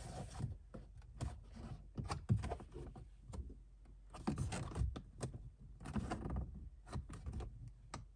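Plastic interior trim being handled and worked loose by hand: irregular clicks, knocks and light rubbing, coming in small clusters.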